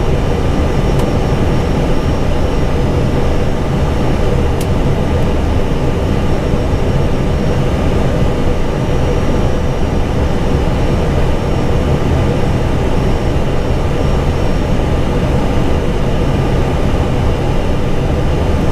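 Airbus A320 cockpit noise on final approach: a steady rush of airflow and engine noise with a faint steady hum, and two faint clicks in the first few seconds.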